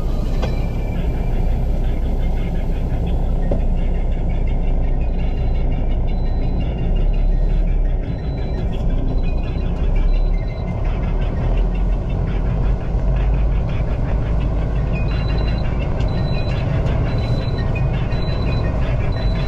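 Steady low rumble of a vehicle running, heard from inside the cab. A run of short, evenly spaced high beeps sounds about five seconds in and again near the end.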